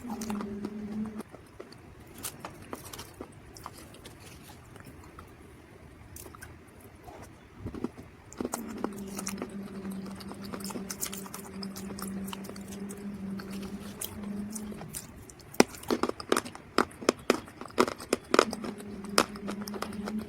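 Dry mud crunching and cracking, sharp crackles that come thick and loud for a few seconds near the end. A steady low hum comes and goes underneath.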